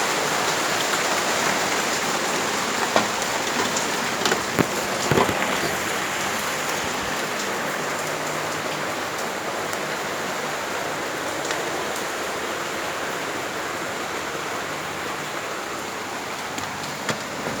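Steady rain falling, with a few sharp taps in the first five seconds or so.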